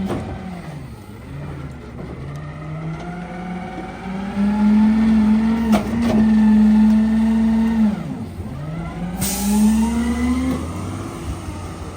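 CNG garbage truck engine revving up and holding high as the rear-loader packer cycles through heavy trash. The pitch drops about eight seconds in, then climbs again. There is a sharp knock near the middle, and a hiss starts about nine seconds in.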